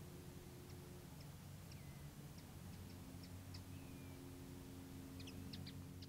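Faint scattered bird calls: short high peeps and a couple of brief falling whistles, with a quick cluster of calls near the end, over a low steady hum.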